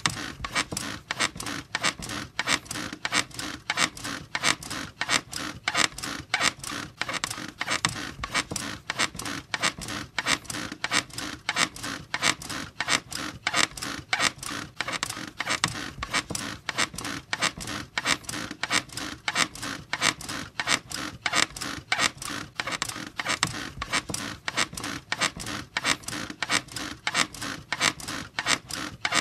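A bed squeaking over and over in a fast, even rhythm of repeated creaks, as if rocked back and forth.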